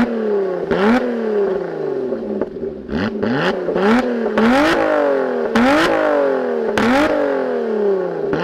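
2016 Lotus Evora 400's supercharged V6 free-revving in quick throttle blips, about ten in a row. Each one climbs sharply and falls away, with sharp cracks from the exhaust at several of the peaks.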